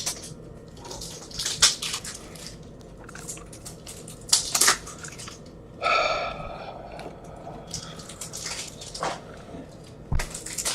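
Trading cards being handled while packs are opened: scattered rustles, slides and clicks of cards and packaging, with a brief squeak about six seconds in and a low thump near the end.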